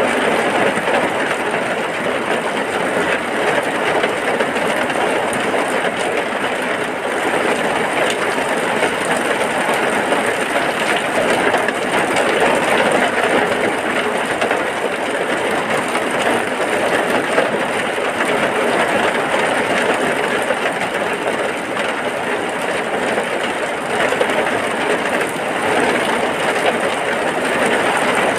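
Heavy rain falling steadily: a dense, even hiss with no breaks or separate drops standing out.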